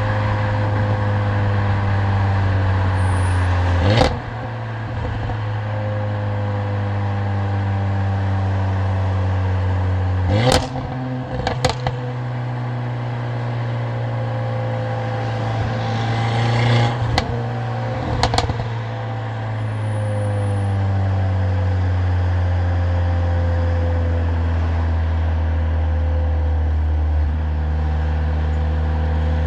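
Mercedes-AMG CLA45's turbocharged four-cylinder engine and loud exhaust under way, its note slowly rising and falling. Sharp cracks cut in about four seconds in, twice around ten to twelve seconds in, and twice more around seventeen to eighteen seconds in, each followed by a brief dip in level.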